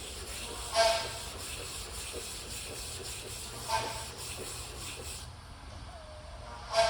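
Metal sample pieces being deburred by hand: steady rubbing and scraping. Three short metallic rings stand out, about a second in, near the middle and at the end.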